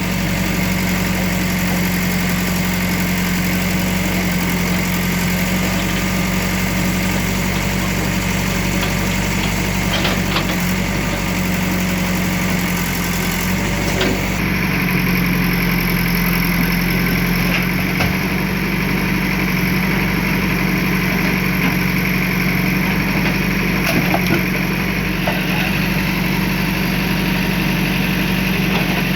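Engine of a demolition machine running steadily, with a few faint knocks.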